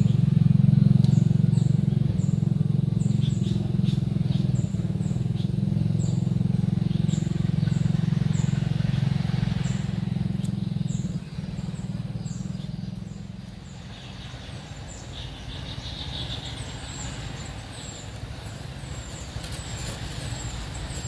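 A steady low engine hum of motor traffic, loud in the first half and dropping off about halfway through, with small birds' short high chirps repeating every second or so throughout and a brief spell of lower bird calls in the second half.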